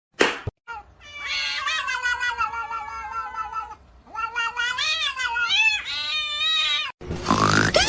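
A cat yowling: one long drawn-out call, then several wavering calls that rise and fall in pitch. Two short knocks come just before the yowling, and a different loud sound with a falling pitch cuts in near the end.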